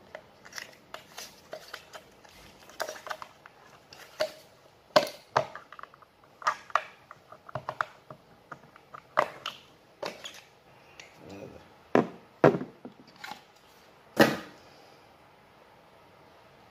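Plumbing parts (a shower mixer and PVC fittings) being handled and set down on a hard surface: irregular clicks and knocks, with a few louder knocks about five, twelve and fourteen seconds in.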